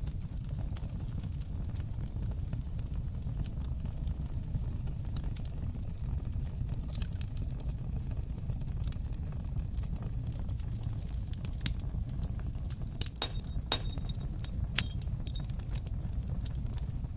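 Wood fire burning in a stone fireplace: a steady low rumble of flame with scattered crackles and snaps. The pops come thicker a little after halfway, with one sharp, loud pop about fifteen seconds in.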